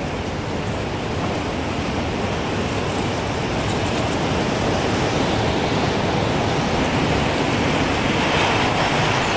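Gusting wind, a steady rushing that swells toward the end, with a wind chime starting to tinkle faintly near the end.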